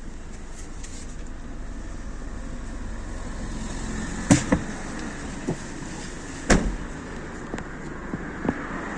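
Honda Civic 1.8 petrol four-cylinder engine running steadily. A few sharp knocks come through, a pair about four seconds in and a louder one about six and a half seconds in.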